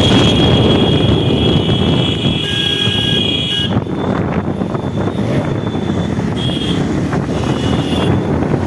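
Motorcycle on the move: engine and road noise with wind buffeting the microphone. A steady high whine sounds over it for the first three and a half seconds, then returns briefly a few times.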